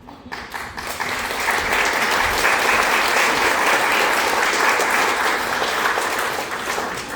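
Audience applauding, building up within the first second, holding steady, then tapering off near the end.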